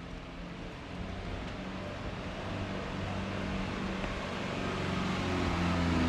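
Motor vehicle engine growing steadily louder as it approaches along the street.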